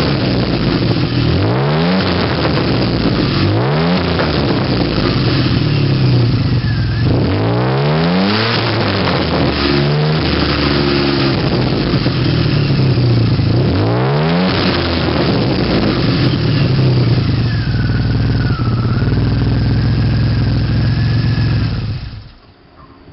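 Turbocharged DeLorean V6 with a custom stainless steel tuned exhaust, revved in repeated quick blips that rise and fall back to a steady idle between them. The engine sound stops abruptly near the end.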